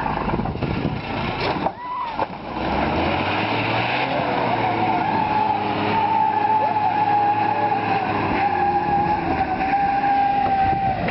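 Heavy truck engine running hard. From a few seconds in, a steady high-pitched whine holds over it, dropping slightly in pitch toward the end.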